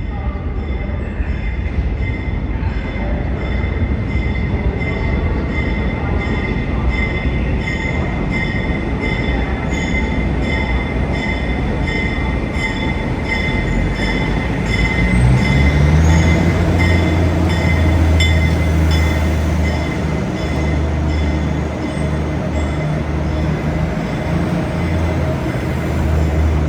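Damaged R62A subway cars being towed through a station: steady wheel and rail rumble with high squealing tones that pulse regularly. About halfway through, a deep steady hum comes in and the sound gets louder.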